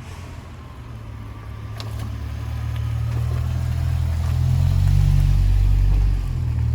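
BMW E60 M5's S85 V10 running through an Eisenmann exhaust, a deep steady drone that grows louder, is loudest about five seconds in, then eases slightly.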